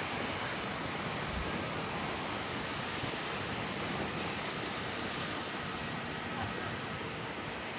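Steady wash of ocean surf breaking on a beach, with wind on the microphone.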